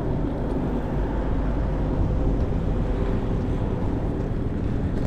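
Steady low rumble of wind and road noise from riding an e-bike along a city street, with traffic going by.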